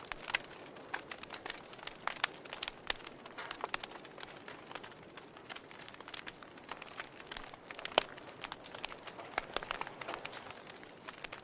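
Wood fire crackling in a fireplace: irregular sharp pops and snaps over a soft steady hiss, with one loud pop about eight seconds in.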